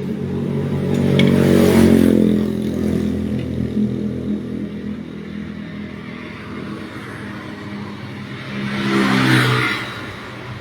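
A vehicle engine running, swelling louder and higher in pitch twice, once about a second in and again near the end.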